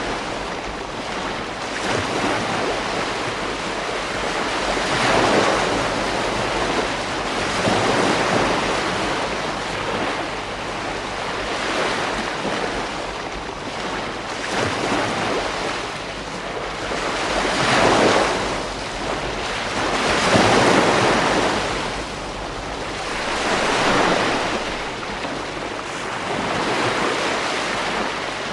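Ocean waves breaking on a beach, a continuous wash of surf that swells and falls back every few seconds, with some wind noise on the microphone.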